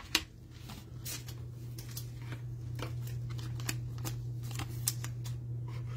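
Trading cards being handled and flicked through: a string of irregular sharp little clicks and slides, over a steady low hum.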